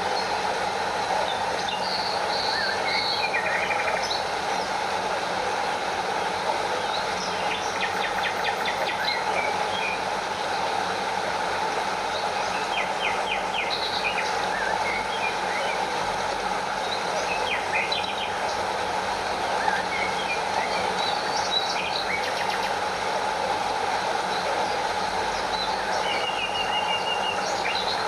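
Stream water rushing steadily in an even, unbroken wash. Short bird chirps and trills come and go over it.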